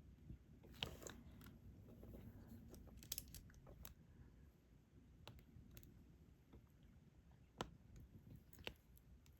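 Faint, irregular clicks and taps of a multi-placer (group) stylus picking up resin diamond-painting drills and pressing them onto the sticky canvas, with the sharpest clicks about a second in, around three seconds in and past seven seconds.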